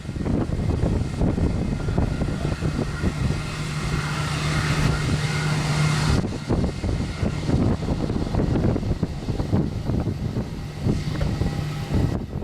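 Engine rumbling steadily with rough low-end noise, under a steady low hum that cuts off abruptly about six seconds in.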